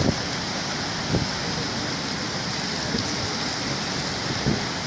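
Steady rain falling, an even hiss, with a couple of short louder taps, one about a second in and one near the end.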